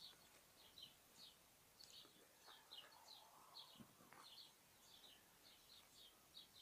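Faint bird chirping: short high notes repeated about twice a second.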